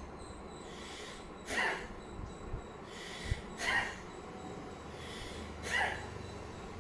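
Forceful nasal exhalations of Bhastrika pranayama: three sharp breaths out through the nose, about two seconds apart.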